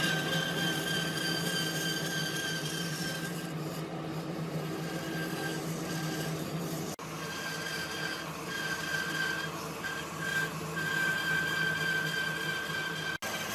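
Electric power tool running steadily with a motor whine, broken by two abrupt cuts, about halfway and near the end.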